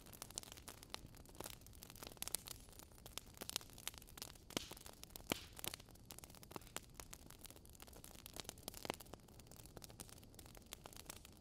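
Wood fire crackling in a fireplace: irregular small pops and snaps, several a second, over a faint hiss.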